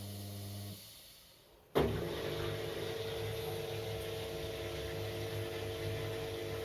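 Washing machine hum cutting out just under a second in, then, after a second of near quiet, the drain pump switching on abruptly and running with a steady, low hum as the machine empties its water before the spin.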